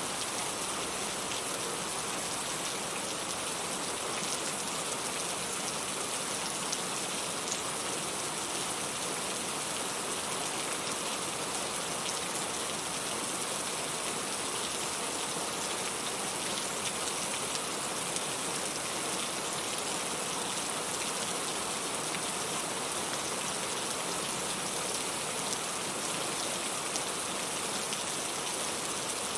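Steady rain falling, an even, unbroken hiss with faint scattered drop ticks.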